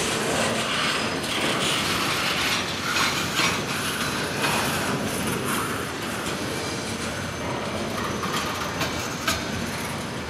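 Railroad cars rolling past on the track: a steady rolling noise with irregular clanks and clicks from the wheels on the rails.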